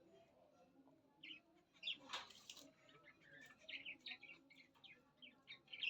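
Small pet finches chirping in quick, short high notes, starting about a second in and going on in rapid runs, with a brief rustling noise about two seconds in.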